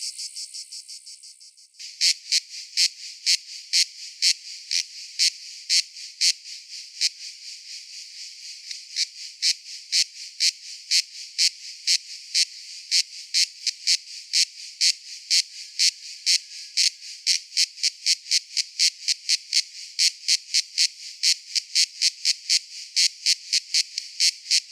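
Cicada calling: a continuous high buzz that fades away over the first two seconds, then breaks abruptly into a regular train of sharp, high pulses at about two a second, with a slightly quieter stretch about eight seconds in.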